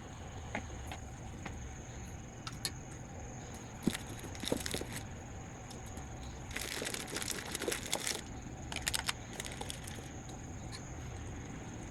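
Ramen eating and handling sounds: scattered clicks and taps, with a noisy rush lasting about a second and a half starting about six and a half seconds in and a shorter one near nine seconds, over a steady faint high-pitched tone.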